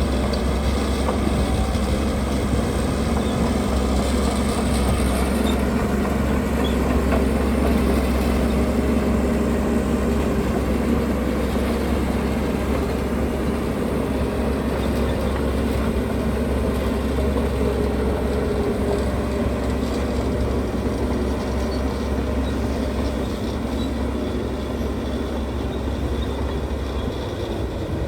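Heavy diesel construction machinery running steadily, a continuous low engine rumble with mechanical noise over it.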